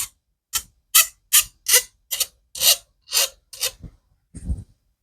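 The cut end of a brake line being filed by hand in short back-and-forth strokes, about two to three a second, to dress it clean, bevelled and free of burrs before it is flared.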